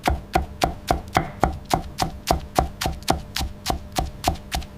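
Kitchen knife chopping rapidly on a cutting board, an even rhythm of about four cuts a second.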